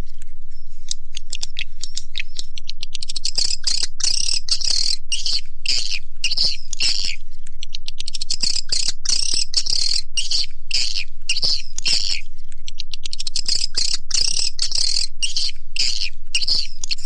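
Swiftlet call-sound (suara panggil walet) recording: dense, rapid twittering chirps of edible-nest swiftlets in quick repeated bursts at a steady loud level. It is the lure track that swiftlet farmers play to draw the birds into a nesting house.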